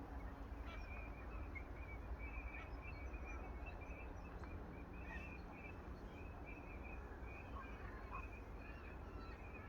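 Distant birds calling: a near-continuous stream of short, high chirps over a steady low background rumble.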